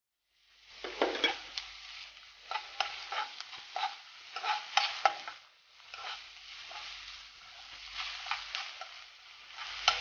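Ginger-garlic paste sizzling in hot oil with fried onions while a spoon stirs and scrapes the pan. It starts about half a second in and stops briefly around the middle.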